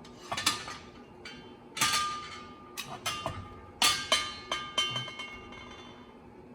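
Steel parts clinking and knocking as a billet steel flywheel and its bolts are worked into place on the crankshaft: several sharp metallic knocks in small clusters, some leaving a brief ringing tone, dying away near the end.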